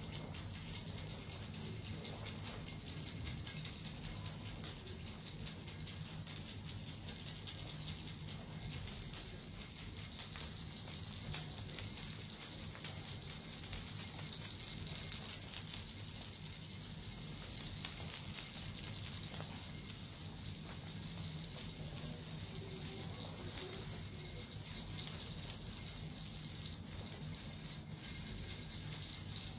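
Japanese suzu bells and a metal rattle shaken without pause, a dense steady jingling with a constant high ring.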